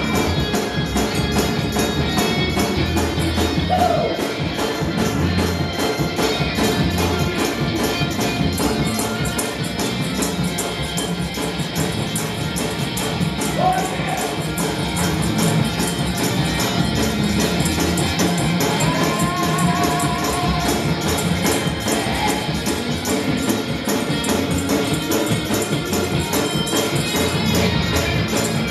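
Up-tempo gospel praise-break music driven by a tambourine shaken to a fast, steady beat, with voices singing or calling out now and then.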